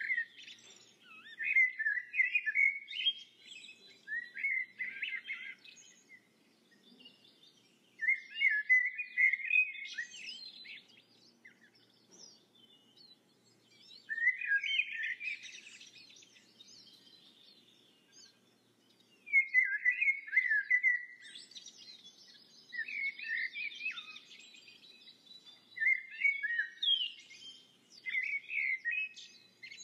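Birdsong: a songbird singing bouts of quick, warbling chirped phrases, each a few seconds long with short pauses between them.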